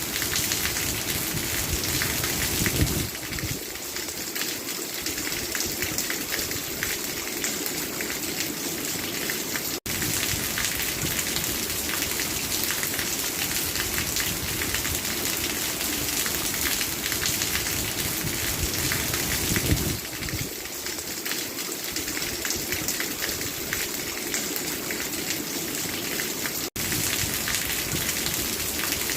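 Steady rain falling, a dense patter of drops, briefly cutting out twice.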